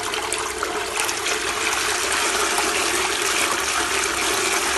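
Water pouring and splashing steadily from the outlet of a DC60G-24120A-1 24 V brushless DC water pump, with a faint steady hum from the pump. The flow gets a little louder about a second in. The pump is back in water after its dry-run protection test and running continuously again.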